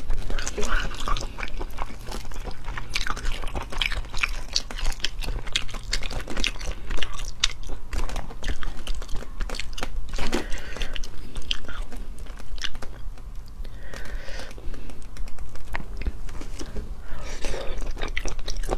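Close-up mouth sounds of biting and chewing springy snail meat in chili oil, with many irregular wet clicks and smacks.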